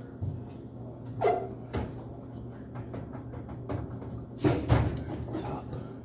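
Rag wiping the inside of a microwave oven, with a few knocks and bumps against its walls, the loudest about four and a half seconds in, over a steady low hum.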